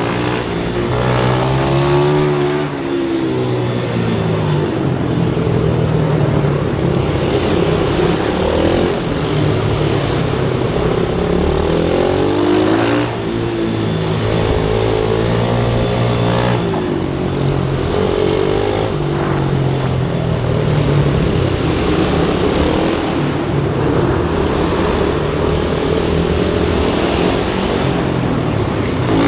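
Pit bike engine, a small single-cylinder, ridden hard on track: it climbs in pitch under throttle, then drops off, over and over every couple of seconds.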